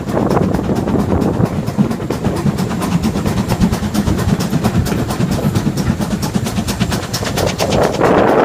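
Steam train running, with a rapid, regular beat of several strokes a second over a steady rumble. Near the end a loud rush of wind on the microphone comes in.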